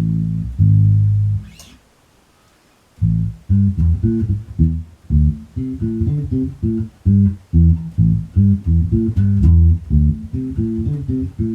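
Bass guitar playing a riff alone. It stops for about a second, two seconds in, then starts a new line of short, quick notes.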